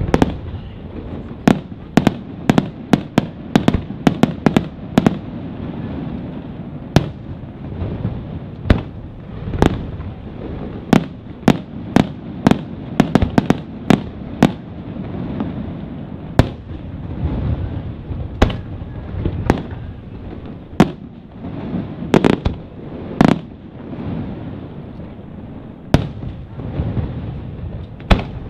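Fireworks display: aerial shells bursting in dozens of sharp bangs, bunched in quick irregular clusters, over a continuous low rumble of booms.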